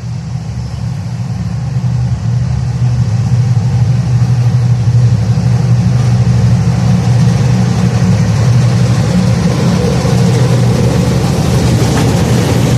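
M6 class diesel locomotive engine running with a deep, steady drone, growing louder over the first few seconds as the train approaches.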